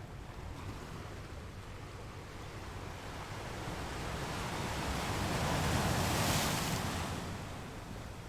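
Ocean waves: one wave slowly builds, breaks with a rushing hiss about six seconds in, and washes back out.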